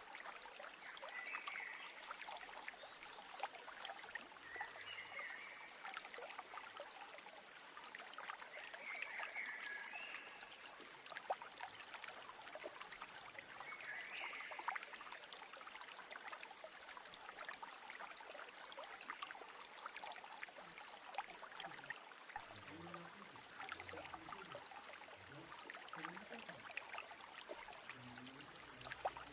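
Stream water trickling and flowing, with a bird's short chirps four times in the first half.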